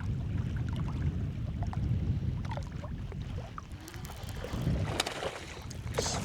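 Wind buffeting the microphone, a low rumble that eases after about four seconds, with a few light clicks near the end.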